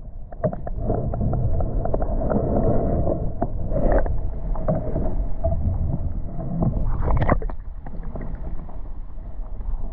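Muffled water sloshing and rumbling picked up by a GoPro held underwater, with scattered clicks and knocks as the camera is moved about.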